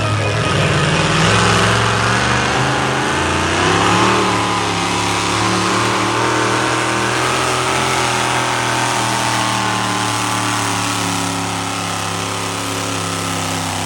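A pulling vehicle's engine running loud at high revs. Its pitch climbs about four seconds in, then holds steady.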